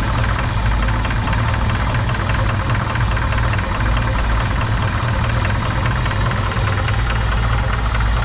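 Chevrolet Opala's four-cylinder petrol engine idling steadily with a rapid, regular knock from inside the engine, a diesel-like clatter. The mechanic thinks excessive play between an aluminium timing gear and the crankshaft gear could cause it.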